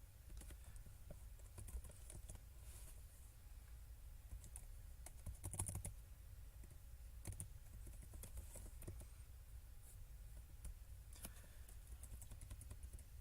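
Faint, irregular clicking of computer keys being pressed, over a low steady hum.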